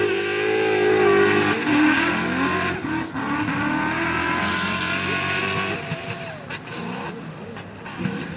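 Drift car engine revving hard with tyre noise as the car slides, its pitch rising and falling with the throttle; it eases off about six seconds in.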